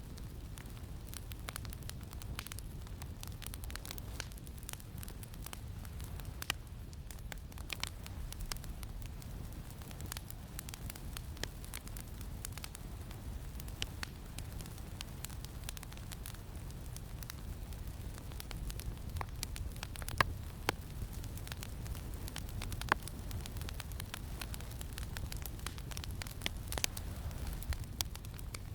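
Campfire crackling, with many small irregular pops and a few sharper ones, over a steady low rumble of wind.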